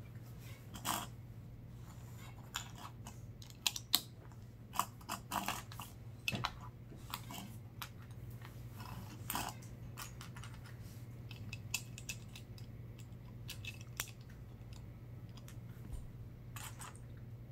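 Plastic Lego bricks being handled and fitted together: irregular sharp clicks and short rattles, busiest in the first half.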